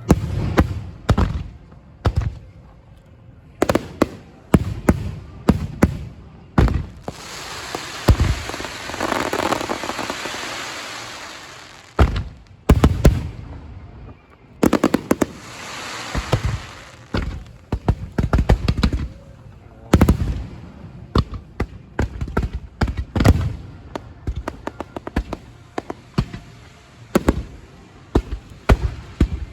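Aerial fireworks exploding: a long run of loud bangs, some in quick succession. Twice a rush of fizzing crackle fills the gaps, from crackling or glittering shells burning out.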